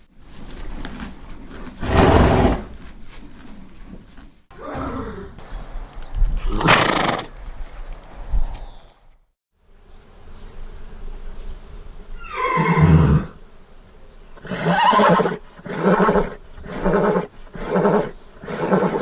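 Horses neighing and whinnying: loud separate calls, one with a falling pitch about two-thirds of the way through, then a run of short rhythmic calls about one a second near the end.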